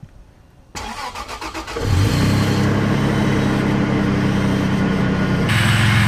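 A vehicle engine is cranked by its electric starter for about a second, then catches about two seconds in and runs steadily. A brighter hiss joins near the end.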